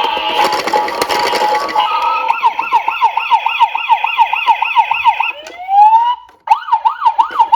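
Electronic toy police car siren in a fast yelp, its pitch wavering up and down about three times a second. It starts out jumbled with other siren tones, gives a rising wind-up about five seconds in, cuts out briefly and then resumes yelping.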